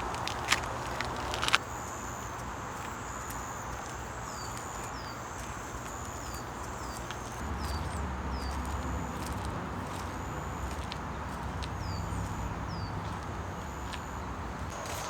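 Small bird calling repeatedly: short high whistled notes, each with a quick falling chirp, over a steady background of forest noise. A couple of sharp clicks or steps come in the first second and a half.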